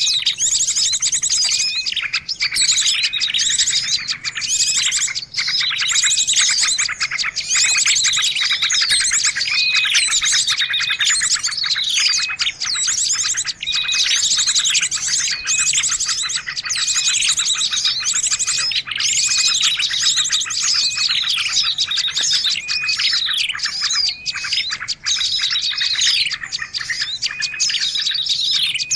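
Bird-lure recording of many small songbirds chirping and trilling together in a busy, continuous chorus. It is full of high sweeping notes and fast rattling trills that overlap without a break.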